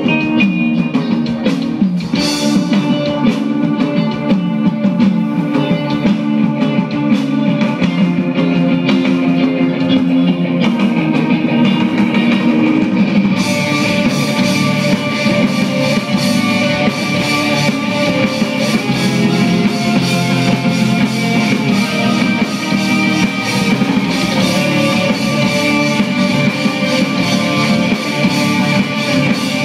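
Live rock band playing an instrumental passage on guitars and drum kit. About 13 seconds in the cymbals come in and the band gets fuller.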